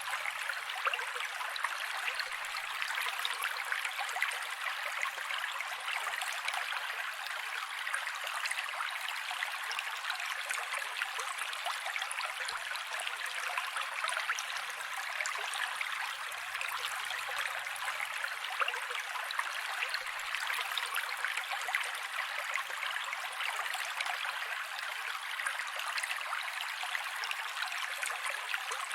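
Mountain creek running over rocks: a steady rush of flowing, splashing water with fine bright splashes.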